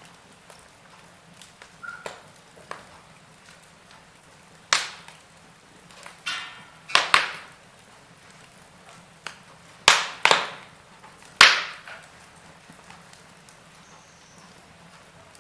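Burning firewood crackling softly, with about six sharp, loud pops spread through the middle seconds.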